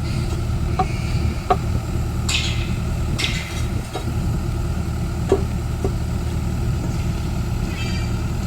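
Caterpillar excavator's diesel engine running steadily at a low, even pitch, with several short metallic clanks and two brief scraping hisses from the machine at work.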